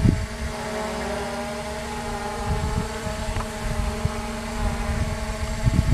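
Hubsan H501S quadcopter's motors and propellers running with a steady whine of several held tones, with low thumps of wind on the microphone at the start, midway and near the end.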